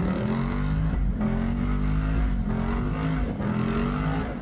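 An engine revving over and over, its pitch dropping and climbing again about once a second.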